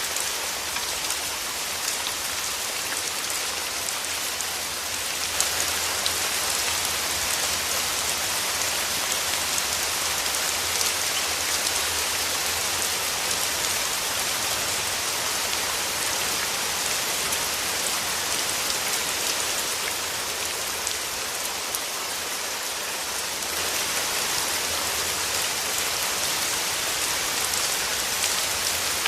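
Steady rain falling: a dense hiss of countless drop patters, growing heavier about five seconds in and easing again near the end.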